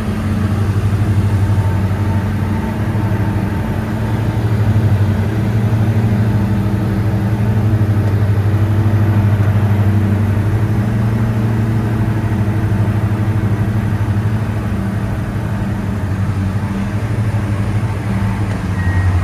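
Diamond DA62's twin turbodiesel engines and propellers droning steadily, heard from inside the cabin, with a strong low hum.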